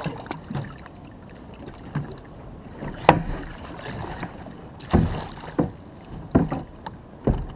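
Irregular knocks and bumps of gear being handled on a kayak, about five sharp ones, over a low wash of water and wind.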